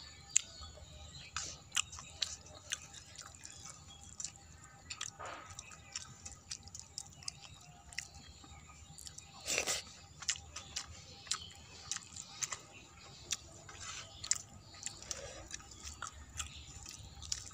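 Close-up mouth sounds of a person chewing a meal of rice and crisp shredded fried potato: irregular wet clicks and smacks, the loudest about ten seconds in.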